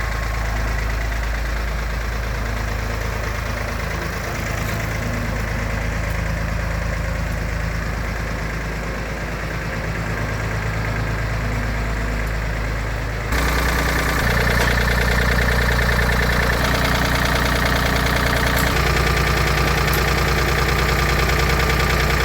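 Tractor engine idling steadily. About thirteen seconds in, it suddenly gets louder and brighter and stays that way.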